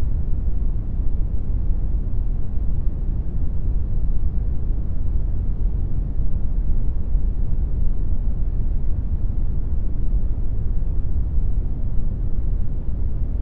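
Steady computer-generated brown noise: an even, unchanging hiss weighted heavily toward the bass, the highs falling away.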